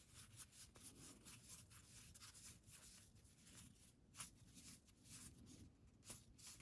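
Faint rustling and light ticking of trading cards being slid and flipped through by hand, card edges rubbing one over another, with one slightly sharper tap about four seconds in.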